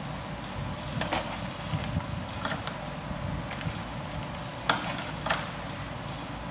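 Hughes Model 50B welding power supply running on test: a steady hum, with a handful of sharp clicks at irregular intervals, the loudest two near the end.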